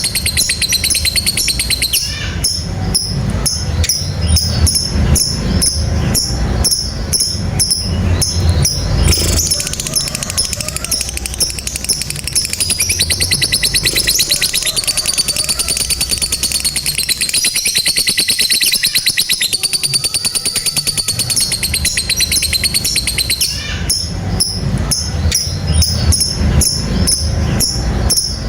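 Lovebirds in long 'ngekek' song: a continuous, very rapid, high-pitched chattering trill of repeated notes without pause, over a low background rumble.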